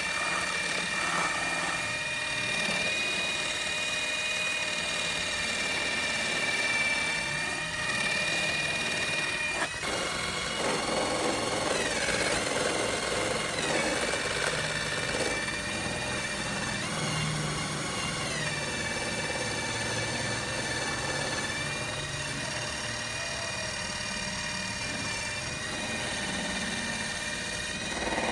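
A high-speed electric power tool running steadily with a high whine, its pitch dipping briefly several times as it is loaded against the work.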